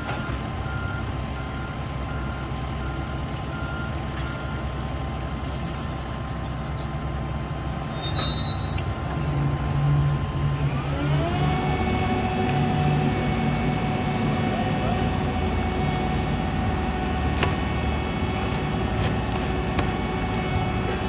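Heavy diesel construction equipment running, with a backup alarm beeping in a steady on-off pattern for the first four seconds or so. About ten seconds in, the engine speeds up with a rising whine that then holds steady.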